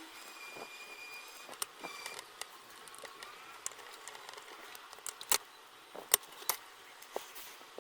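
Scattered sharp clicks and taps of small hard objects over a low hiss, with a faint high steady tone briefly near the start.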